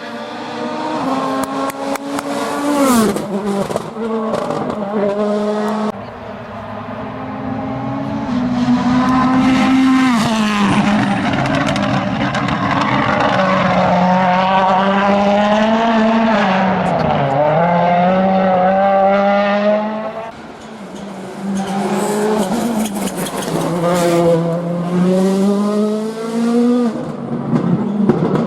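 Rally cars at full throttle on a special stage, engines revving hard, the pitch climbing and dropping through gear changes. The sound swells as cars come close and fades between them, with a few sharp cracks.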